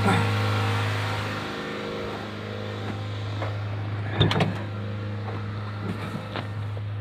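1999 Mazda Protege's 1.8-litre four-cylinder engine held at about 3100 rpm, a steady drone while it charges a motorhome's flat battery through booster cables. A few sharp clicks or knocks come about four seconds in.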